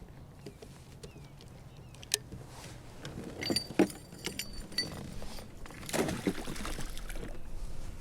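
Handling noises in a kayak as a bass is landed: scattered clicks and knocks with a brief metallic jingle about three and a half seconds in, and a rustle of movement near six seconds.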